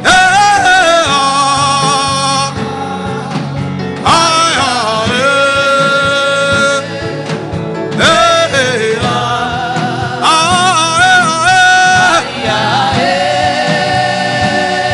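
Music with singing: a voice holding long, wavering notes in phrases that start afresh about every four seconds, over steady instrumental backing.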